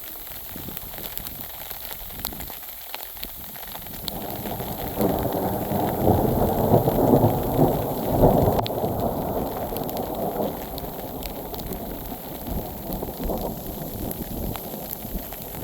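Distant thunder rumbling after a lightning flash. It swells about four seconds in, is loudest midway, then slowly fades, over a steady patter of sleet with sharp ticks of ice pellets striking.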